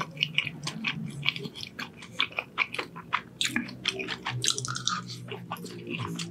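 Close-miked chewing of a mouthful of cheese-sauced beef fries: a run of many short mouth clicks and smacks.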